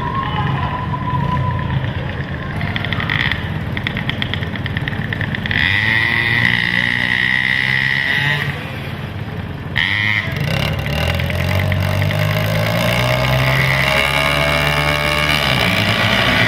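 Racing quad (ATV) engines revving up and down as they run laps of an indoor dirt track, dipping briefly about halfway through before rising again.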